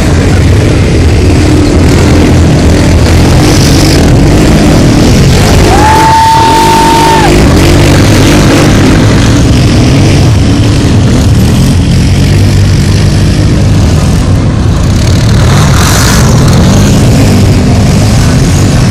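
Many ATV and dirt bike engines running and revving together at an off-road race start, loud and continuous. About six seconds in, a single steady high tone sounds for about a second and a half.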